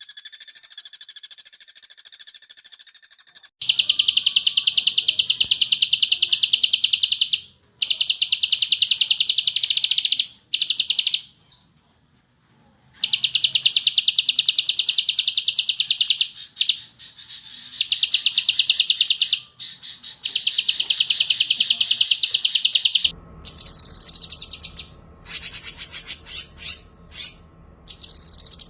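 Recorded songbird song played for birds to learn from: whistled notes at first, then long bursts of a very rapid, buzzing trill broken by short pauses. Near the end a different recording takes over, with falling sweeps and sharp chirps over a low background hum.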